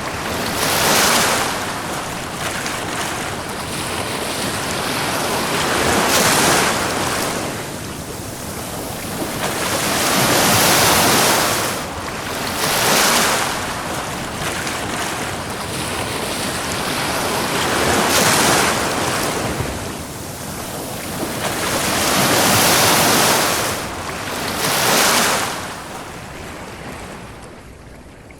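Ocean waves breaking and washing up a beach, swelling and ebbing in about seven surges a few seconds apart, with a quieter lull near the end.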